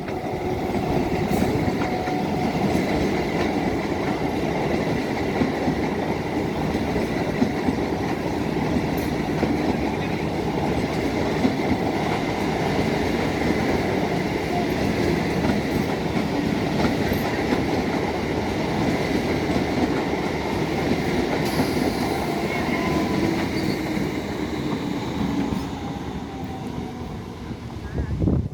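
Electric multiple unit (MEMU) passenger train running on the rails: a loud, steady rumble of wheels on track that eases off somewhat near the end.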